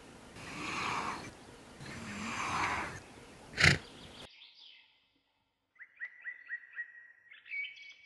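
Two soft rushes of breath-like noise and a short, sharp burst. Then the sound cuts to a small bird chirping a quick run of short notes, about four a second, with higher chirps near the end.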